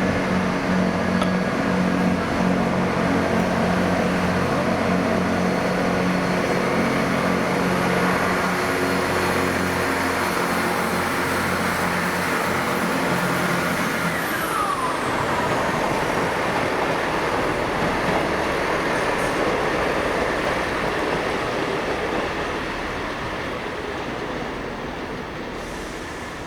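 A train running at a station platform: a steady engine hum that gives way about halfway through to a falling whine and a noisy rumble, which eases off near the end.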